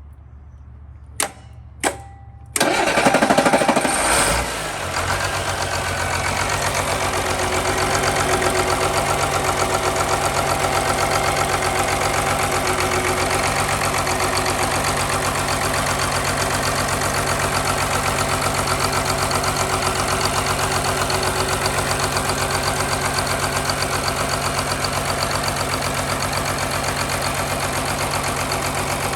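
Two sharp clicks, then a Caterpillar 3126 inline-six diesel engine cranks for a couple of seconds, fires and settles into a steady idle. It is running with the valve cover off, the cylinder head's top end open.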